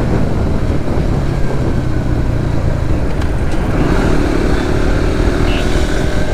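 Suzuki GSX-S150's single-cylinder engine running while riding, under a heavy rush of wind and road noise. Another engine note joins about four seconds in.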